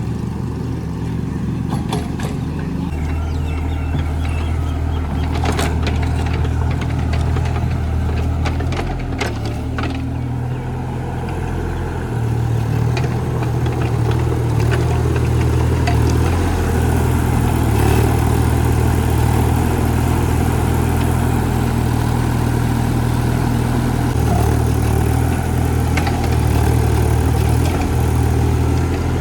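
Mini JCB digger's engine running steadily under work, its note stepping up about three seconds in and again around twelve seconds in, with a few sharp knocks in the first ten seconds.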